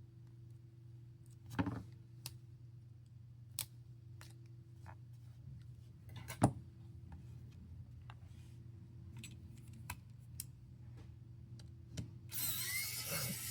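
Scattered small clicks and taps of repair tools and tiny screws on a smartphone's internal parts during disassembly, over a steady low hum. Near the end comes a second or so of scraping and rustling.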